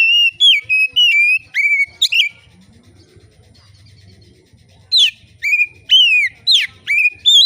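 Oriental magpie-robin (kacer) singing in loud, clear whistled notes that slide up and down: one phrase of several notes at the start, a pause of about two and a half seconds, then a second phrase from about five seconds in.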